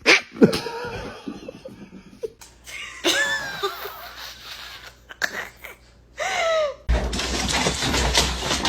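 A dog vocalising with short whines and grumbles that bend up and down in pitch, including one falling whine about six seconds in. From about seven seconds in there is a steady rustling, rumbling noise.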